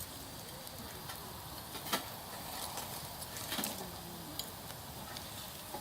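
Wood campfire burning, with scattered crackles and pops over a steady low hiss; the loudest pop comes about two seconds in.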